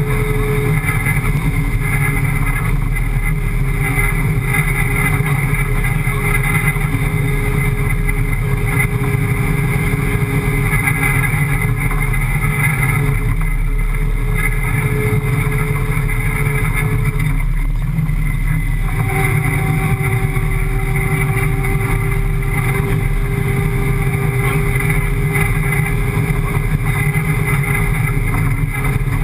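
Desert rally car's 5.7-litre Hemi V8 engine running steadily at speed, heard from inside the cabin.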